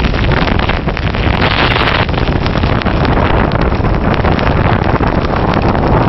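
Blizzard wind blasting against the microphone: loud, continuous rumbling and crackling buffeting.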